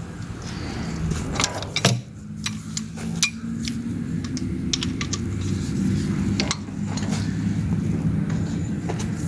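Scattered sharp metal clinks and knocks, a cluster in the first few seconds and another about six and a half seconds in, over a steady running engine hum.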